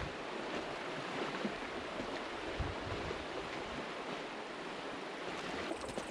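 Rushing water of the Red Deer River in flood after torrential rains: a steady, even hiss.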